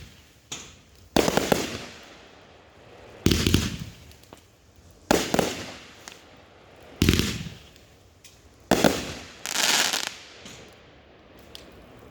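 Consumer aerial fireworks bursting overhead: five loud booms about two seconds apart, each dying away quickly. The last is followed by a longer hissing tail.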